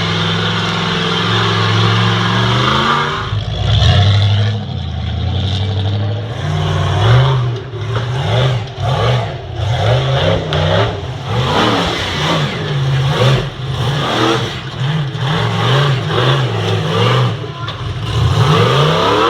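Off-road competition truck's engine running loud, then revved in repeated short bursts that rise and fall about once a second.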